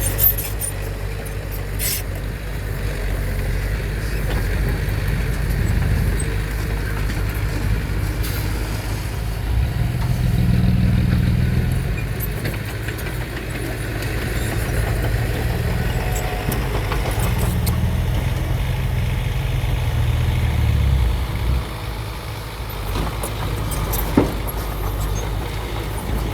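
Radio-controlled model dump trucks and bulldozer running with a low, engine-like rumble that swells twice and drops back, with a few sharp clicks.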